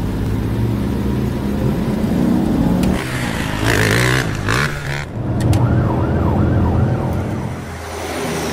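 Cartoon vehicle sound effects: a motor engine running and revving, with a burst of noise about three seconds in and a short wavering siren-like wail later on.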